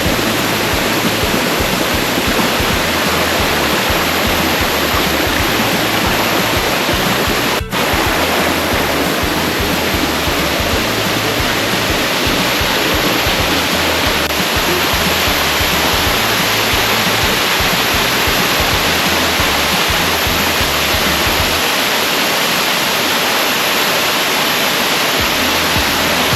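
Large waterfall pouring into a pool: a loud, steady rush of water, with background music under it. The sound drops out for an instant about eight seconds in.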